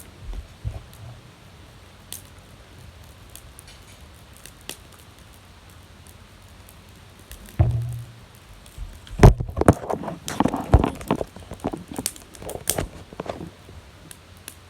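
Firewood being put onto a backyard fire: a thump about seven and a half seconds in, then a run of loud, irregular wooden knocks and clacks as the pieces are handled and dropped, with faint fire crackle in the quieter first part.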